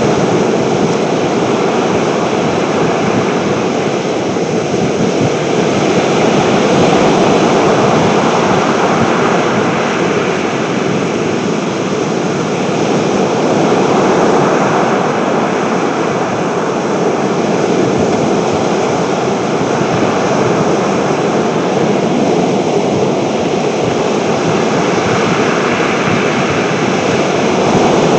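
Strong wind and breaking sea waves: a steady, loud rushing noise that swells and eases slowly every several seconds.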